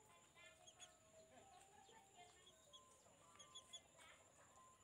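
Faint, scattered chirps of small birds, with short soft calls mixed in.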